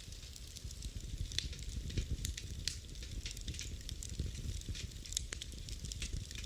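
Wood fire burning in a fireplace, crackling with frequent irregular sharp pops and snaps over a low, steady rumble of flame.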